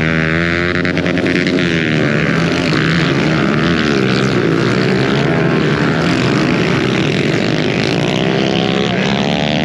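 Pit bike engines revving hard, their pitch rising and falling repeatedly as the riders work the throttle.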